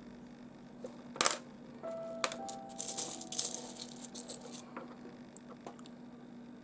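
Small pieces of rough nobby opal clinking and rattling against one another as they are handled: a sharp click about a second in, then a run of clatter with brief ringing from about two to four and a half seconds in.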